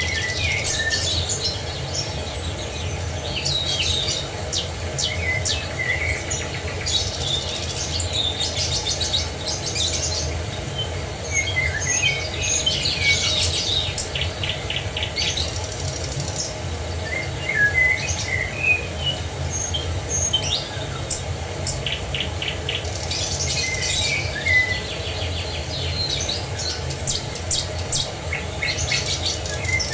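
Several songbirds chirping and trilling in bursts every few seconds, over a steady low rush of falling water.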